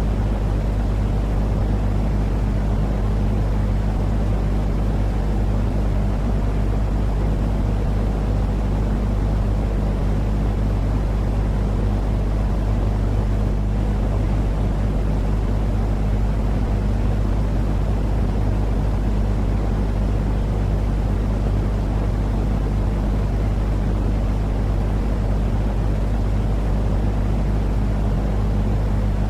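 Continuous baby-sleep noise: a steady, deep rumbling hiss with a constant low hum, unchanging throughout, heavy in the bass and dull in the treble, like the drone of a vehicle cabin.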